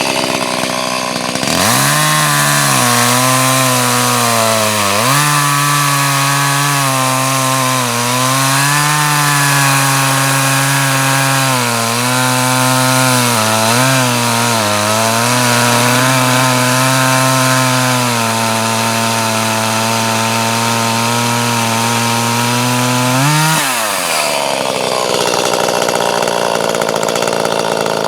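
Two-stroke chainsaw running at high revs while cutting wood. The engine note sags and recovers several times as the chain loads up in the cut. About 24 seconds in the note drops sharply and the saw runs on at a rougher pitch.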